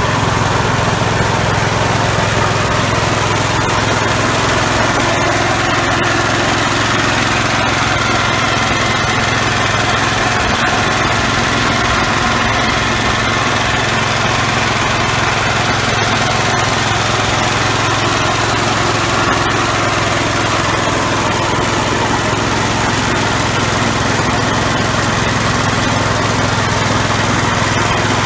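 1966 Gravely L walk-behind tractor's single-cylinder engine running steadily under a constant load, driving an MA115 Deluxe snowblower attachment.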